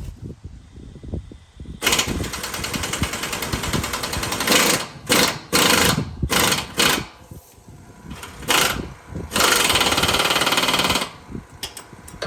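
Impact wrench with an 18 mm socket driving the cab shock absorber bolts on a semi truck, hammering in bursts: one long run, several short bursts, then a long final run as the bolts are tightened.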